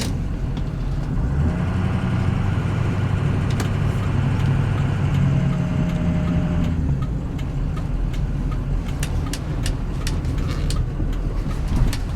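6.0-litre Powerstroke turbo diesel V8 of a 2003 Ford F350 pulling under way, its note rising with a whine for about five seconds, then easing back to a steady cruise about seven seconds in.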